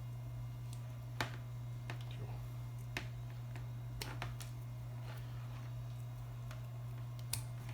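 A handful of sharp, scattered clicks and taps from hands handling thick speaker cable and its connections, over a steady low hum.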